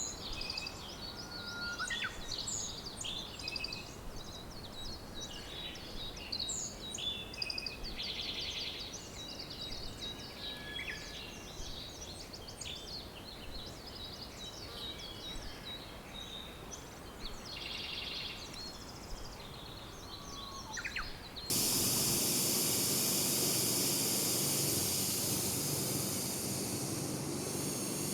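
A dense chorus of many small birds chirping and singing over a faint background hiss. About three-quarters of the way through it cuts abruptly to a louder, steady rushing noise.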